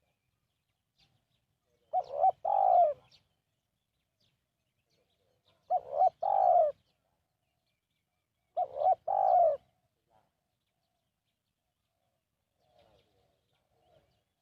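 Spotted dove cooing: three phrases a few seconds apart, each a short note followed by a longer one. Fainter calls follow near the end.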